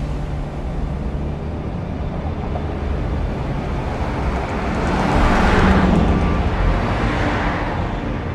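A car passing by: a steady low hum with road noise that swells to a peak about five and a half seconds in, then fades away.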